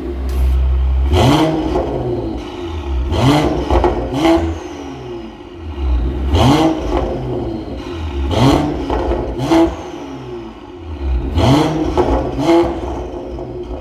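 Mercedes-AMG GT43's turbocharged inline-six with an aftermarket downpipe and valved muffler exhaust, revved in short throttle blips over idle, about eight times, some in quick pairs, each rev rising and falling back.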